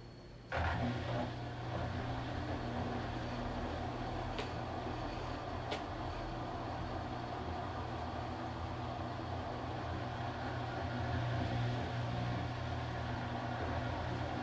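Washing machine motor kicking in about half a second in, then running steadily with a low hum as the drum turns; two faint clicks come a few seconds later.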